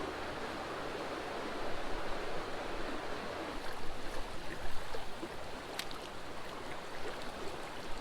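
Small creek's water running steadily over rocks, an even rushing, with a few faint clicks about six seconds in.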